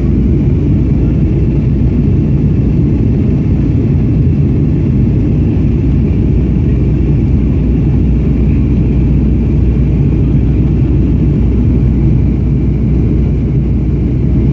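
Steady roar of a Boeing 737-800 in flight, engine and airflow noise heard inside the cabin. It is a deep rumble with a faint steady whine above it.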